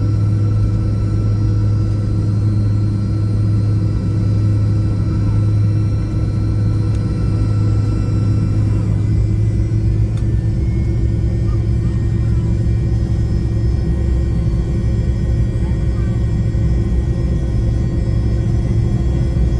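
Airliner cabin noise heard from inside the aircraft: a steady, loud engine rumble with a deep hum and several high whining tones. About nine seconds in the whine changes, one tone dropping out and higher ones coming in, as the engines' speed changes.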